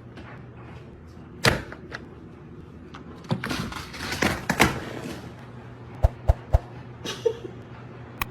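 Indoor knocks and thumps: one thump about one and a half seconds in, a couple of seconds of rustling and scraping, then three quick sharp knocks about six seconds in.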